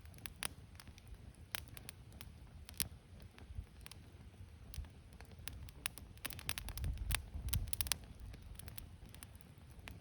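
Wood campfire crackling: irregular sharp pops and snaps over a low rumble, coming thicker and louder about six to eight seconds in.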